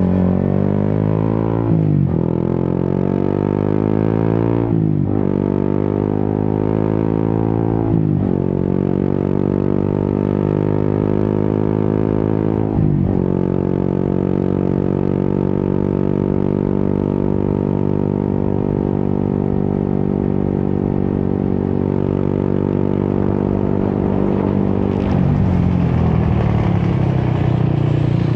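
Yamaha XSR 155's single-cylinder engine through an Akrapovic exhaust, accelerating up through the gears. The pitch climbs and drops sharply at each upshift, about 2, 5, 8 and 13 seconds in. It then holds a steady cruise until the note falls and roughens near the end.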